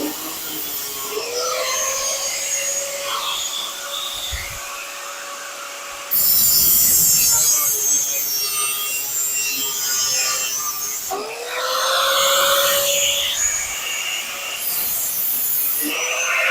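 Power tool cutting through car-body sheet metal in several runs: its whine rises to a steady pitch each time it is triggered, about a second in, about two-thirds of the way through and near the end, with harsh, loud cutting noise from about six seconds in.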